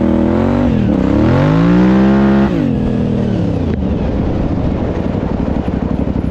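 Suzuki TL1000S 1000cc V-twin engine in a homemade quad revving, its pitch rising and falling, climbing to a high held rev about two seconds in. The throttle then shuts and the engine drops to a lower, rough and uneven running.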